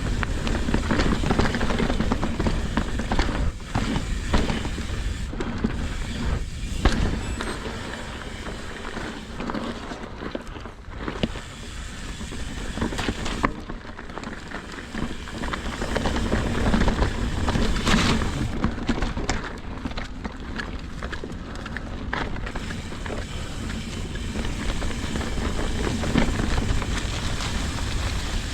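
Mountain bike ridden over a frozen dirt trail, heard from a bike-mounted action camera: steady rumble of tyres and wind on the microphone, with frequent knocks and rattles of the bike over bumps and roots.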